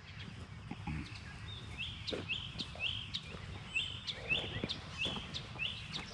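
A bird calling repeatedly: short, high chirps about twice a second, starting about two seconds in.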